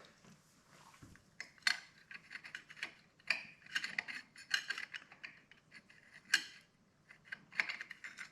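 Motorcycle clutch plates, steel and friction, clinking and clicking against each other as they are handled and stacked, in irregular light knocks with a few sharper clinks.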